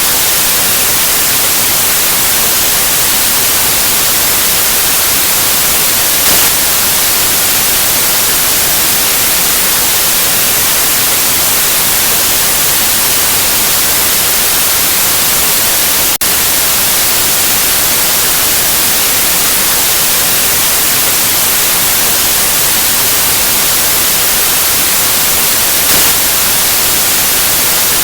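Steady, loud white noise: an even hiss brightest in the high end, with a tiny break about halfway through.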